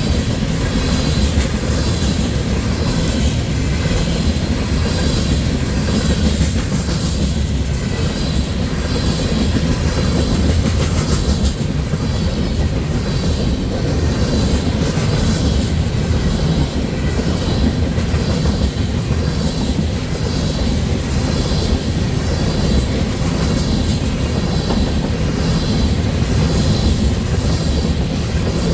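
Freight train of ethanol tank cars rolling past close by: a steady low rumble with the wheels clicking over the rail joints in an even rhythm, about once a second.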